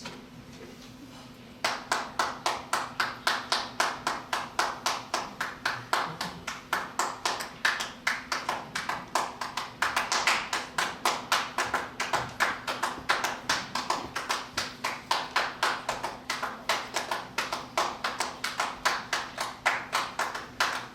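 Group of singers clapping a steady rhythm, about four claps a second, starting a second or two in after a moment of quiet.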